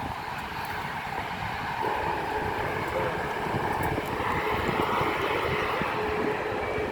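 Jet airliner engines running, a steady rushing hum with a faint whine; another steady tone joins about two seconds in and the sound grows a little louder toward the middle.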